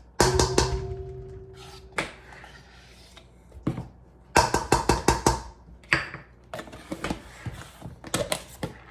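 A spoon knocking and scraping against kitchen dishes while sour cream is scooped out and added to the salad: a sharp knock about a quarter second in that rings briefly, another around two seconds, a quick run of taps in the middle and more taps near the end.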